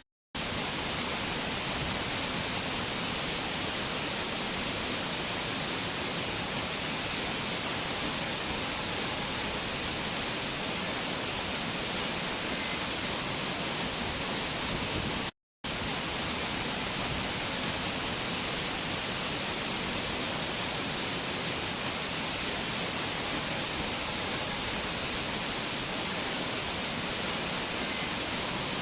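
Waterfall: a steady rush of falling water. It drops out to silence for a split second twice, just after the start and about halfway through.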